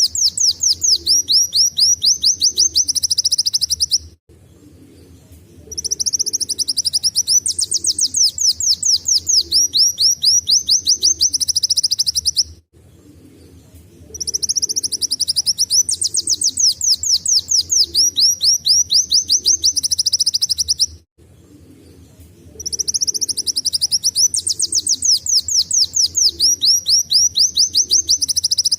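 A kolibri wulung sunbird singing in long bouts of rapid, high, repeated trilling notes in the style of a canary's song. A bout is under way at the start and breaks off about four seconds in; new bouts start about six, fourteen and twenty-two seconds in, each lasting six or seven seconds.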